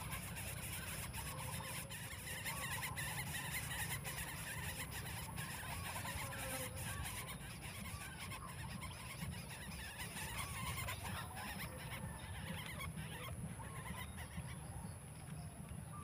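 Faint, short, wavering bird calls repeating throughout, over a steady low background rumble.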